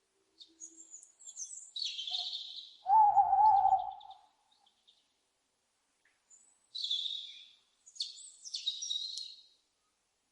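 Owl calls: short, hoarse, high-pitched screeches in three groups, and a louder wavering hoot lasting about a second, roughly three seconds in.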